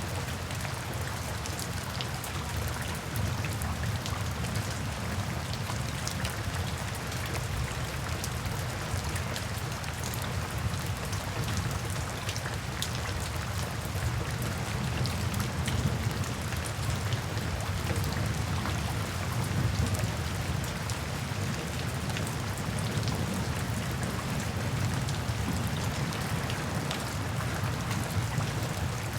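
Steady rainfall, with many individual drops pattering on a surface over a deep low rumble.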